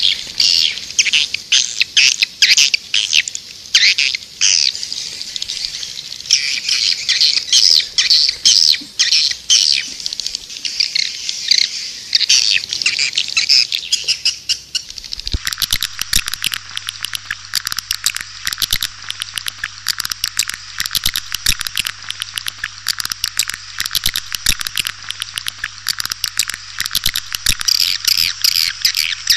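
Swiftlets' massed chirping and twittering, a recorded 'panggil' lure call of the kind played to draw swiftlets into a nesting house. About halfway through it cuts abruptly to a different, brighter recording of the same calls with a faint low hum under it.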